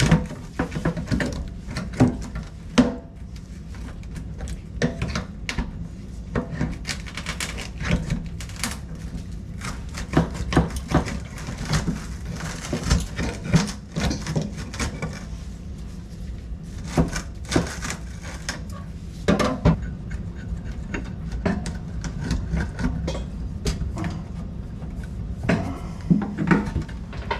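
Irregular knocks, clicks and scraping of metal and plastic parts and hand tools being handled while an old corroded faucet is taken apart, over a steady low hum.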